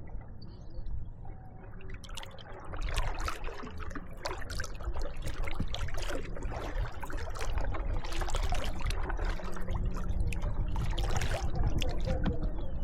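Kayak paddles dipping and splashing in river water, with drips and trickles off the blades; the strokes come irregularly and grow louder after about two seconds.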